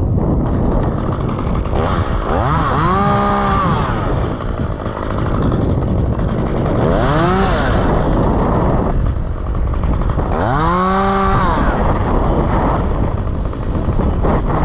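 Chainsaw revved up and let back down three times, its pitch rising and falling with each rev, over a steady running background.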